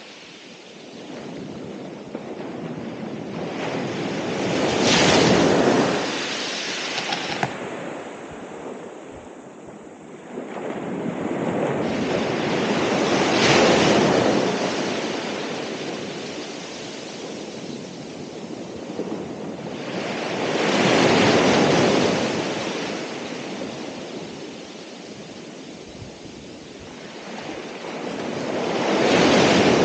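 Ocean surf, waves breaking in a slow rhythm. Each wave swells to a rush and fades away, four times, about eight seconds apart.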